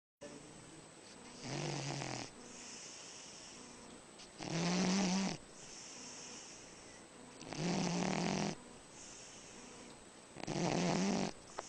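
A sleeping dog snoring loudly in a steady rhythm: four low, buzzing snores of about a second each, roughly three seconds apart. Between them is a softer, breathy hiss.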